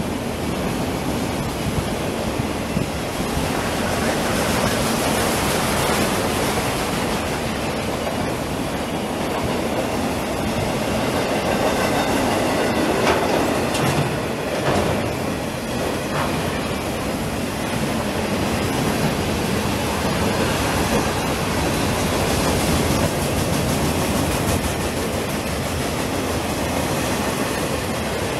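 A freight train's autorack cars and boxcars rolling past at close range: a steady, unbroken rumble and rattle of wheels and car bodies.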